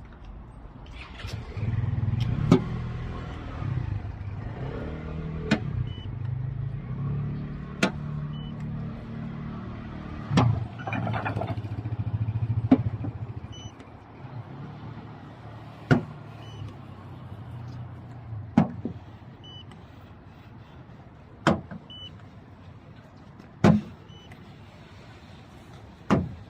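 Operating sounds of a Toyota C-HR: a low motor hum that shifts in pitch runs for about twelve seconds and then stops, with sharp clicks every two to three seconds and a few faint short beeps.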